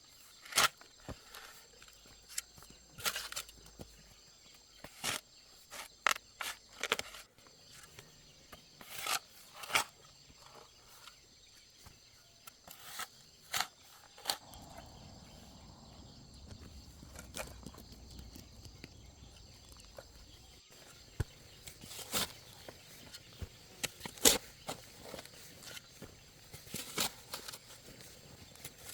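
Irregular sharp knocks and clicks, a dozen or so spread unevenly, over a steady faint high insect chorus.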